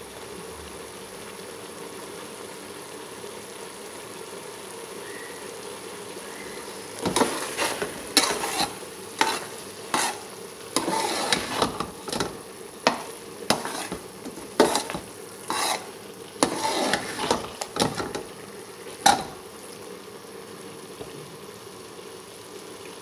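Grated carrots frying in ghee in a steel pot with a steady sizzle, at the stage of being fried until the ghee rises. From about seven seconds in, a metal spatula stirs and scrapes against the pot in a run of strokes, about one to two a second, for some twelve seconds, then the sizzle goes on alone.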